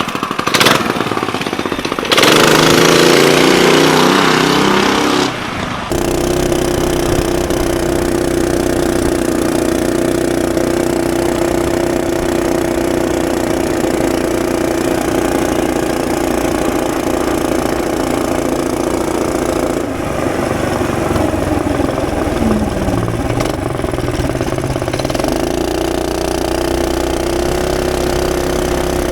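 Small single-cylinder mini bike engine, its governor removed. It revs up loudly with rising pitch about two seconds in, then runs steadily, with a brief drop in speed near the three-quarter mark.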